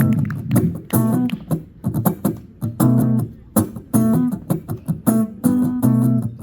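Guitar played live, a rhythmic pattern of short strummed chords separated by brief gaps, about one phrase a second.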